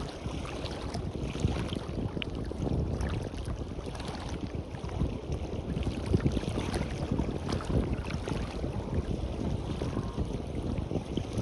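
Wind buffeting the microphone in uneven gusts over the wash of waves on a beach.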